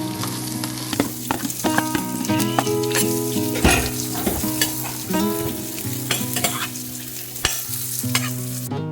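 Food sizzling as it fries in a pan, stirred with a utensil that clicks and scrapes against the pan at irregular moments.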